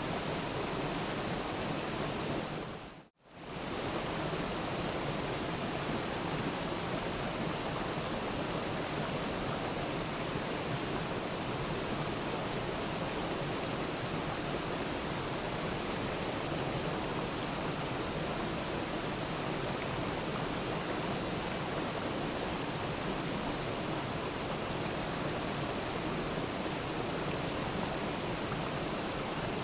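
Waterfall rushing in a steady, even roar of falling water. About three seconds in, it fades quickly to near silence and swells straight back, like a loop restarting.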